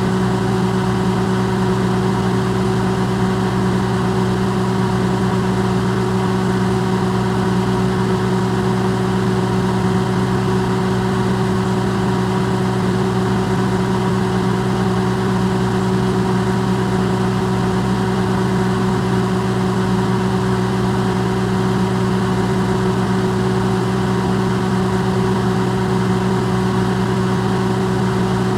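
Electrolux microwave oven running, its sound recorded amplified: a steady hum of several low tones over an even hiss.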